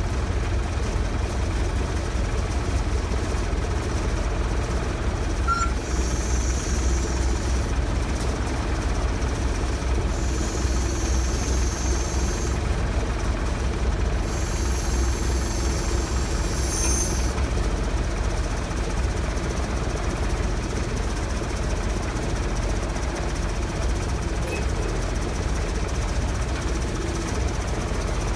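A heavy diesel engine running steadily, with three bursts of high-pitched hiss of a second or two each in the first half.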